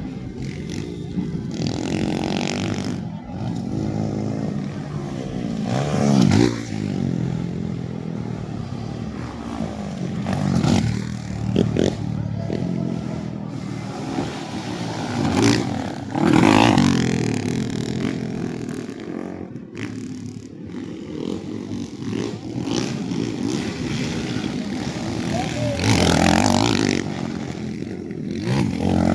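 Motocross dirt bike engines racing, revving up and down as bikes pass by and go into the distance again. The loudest passes come about six, sixteen and twenty-six seconds in.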